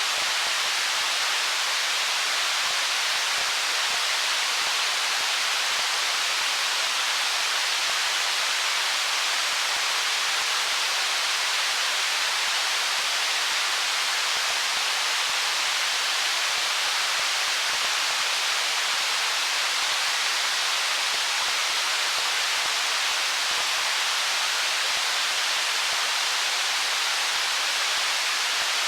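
Flowing stream water: a steady, even rushing hiss, mostly high with little low rumble, that does not change.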